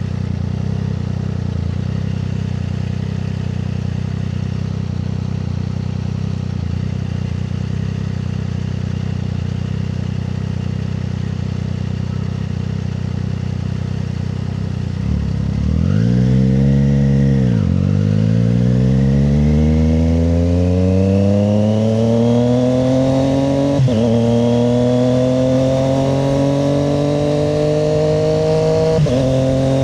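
Triumph Street Triple 765 RS inline three-cylinder engine running steadily at low revs, then about fifteen seconds in it revs up and pulls away, its pitch climbing through the gears with a quick drop at each of three upshifts.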